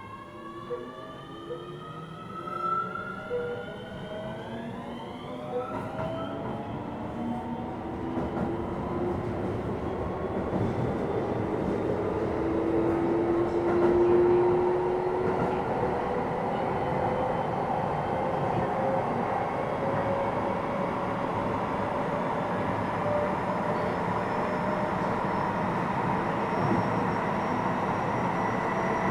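Keio 7000 series electric train accelerating: the traction motor drive whines in several tones that climb in pitch over the first few seconds. Then the steady rumble of wheels on rail builds, growing louder and holding steady as the train reaches speed.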